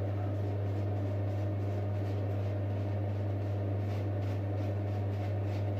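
Steady low hum: a deep drone with fainter overtones above it that holds level throughout.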